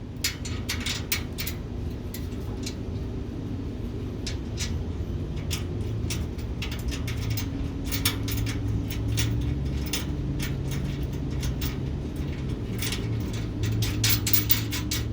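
Metal mounting hardware being handled and fitted: repeated light clicks and clinks of bolts, washers and brackets, over a steady low hum.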